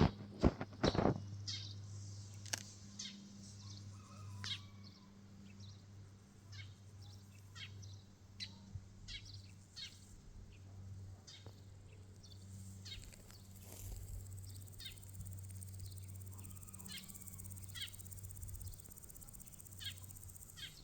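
Short, scattered bird chirps at irregular intervals over a steady low hum, with a few knocks in the first second.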